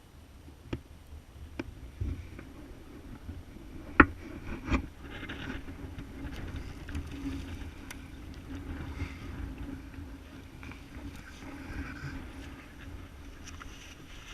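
Dirt bike engine, the single-cylinder four-stroke of a 2012 Yamaha YZ450F with an aftermarket exhaust, running at low revs on the trail. Scattered sharp knocks come through, the loudest about four seconds in.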